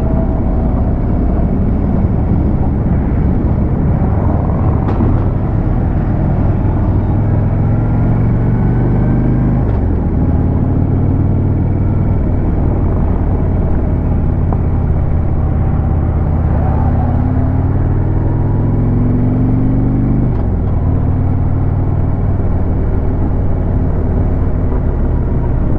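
Harley-Davidson Road King's V-twin engine running under load while riding, its note climbing slowly and then dropping sharply twice, about ten and twenty seconds in, as with upshifts. Wind rumble runs underneath.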